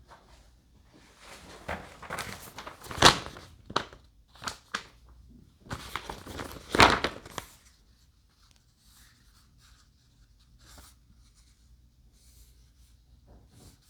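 Hands handling parts, in two bouts of rustling and clatter, each with a sharp knock, about three and seven seconds in.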